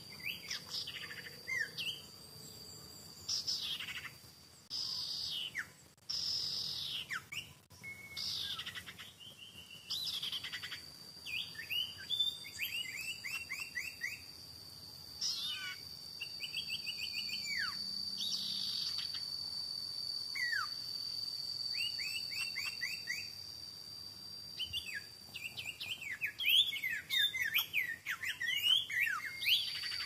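Birds chirping and calling in quick runs of short, falling notes, over a steady high insect drone.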